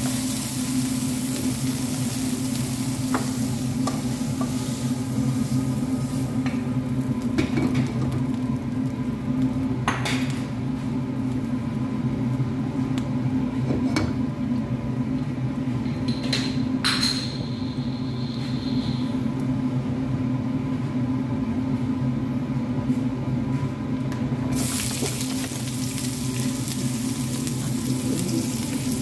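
Food sizzling in hot oil in a nonstick pan, with a spatula stirring and a few sharp knocks against the pan. The sizzle thins out midway, then flares up again loudly about 24 seconds in as sliced onions and green peppers go into the hot oil. A steady low hum runs underneath.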